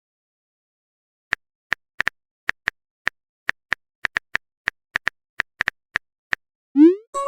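Phone keyboard typing sound effect: about twenty quick, light clicks at an uneven typing pace, followed near the end by a short rising swoosh.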